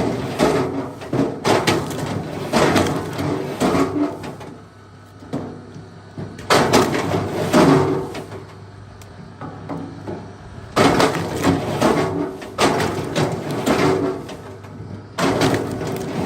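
Wood being worked: groups of sharp wooden knocks and cracks, each group lasting a second or more, with quieter stretches between them.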